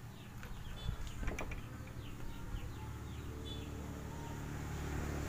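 A series of short, falling bird chirps over a low steady hum, with a couple of small clicks about a second in.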